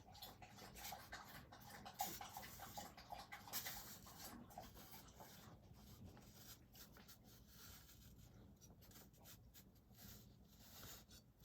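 Near silence: room tone with faint scattered rustles and light clicks.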